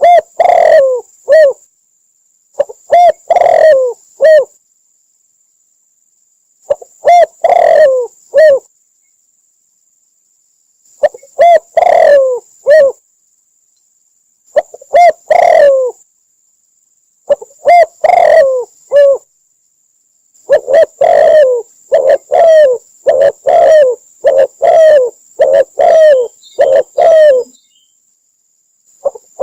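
Spotted dove cooing: low phrases of about three coos, each phrase lasting a second or so, repeat every few seconds. From about two-thirds of the way through, they give way to a faster run of closely spaced coos. A thin, faint high whine sits under the calls.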